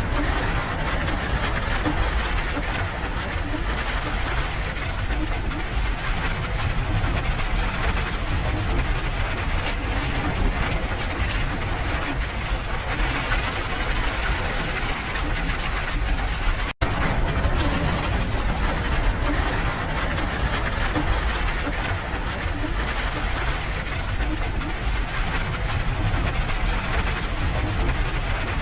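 Steady rain, an even hiss over a low rumble. The sound drops out for an instant about two-thirds of the way through.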